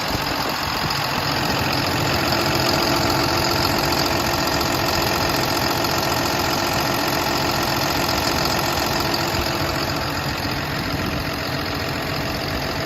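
Diesel engine of a 2015 Kalmar terminal truck (yard tractor) idling steadily.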